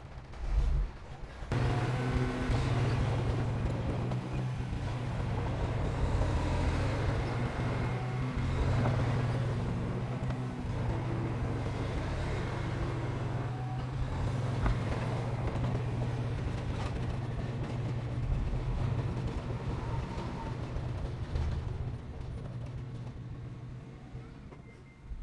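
Heavy earthmoving machinery's diesel engine running steadily, with a low hum and a rough noisy spread above it; the sound cuts in sharply about a second and a half in.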